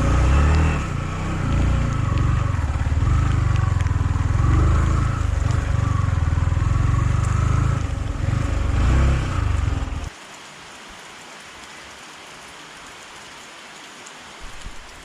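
Yamaha MT-15 motorcycle riding, its engine running under heavy wind buffeting on the microphone. About ten seconds in, the sound cuts off abruptly to a steady soft hiss of rain.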